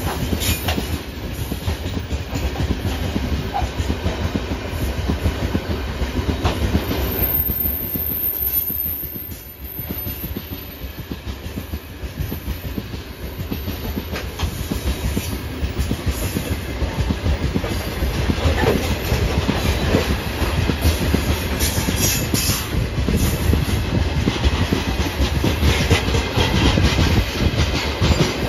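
Freight train of open-top gondola wagons rolling past at speed, the wheels clattering on the rails in a steady run of knocks.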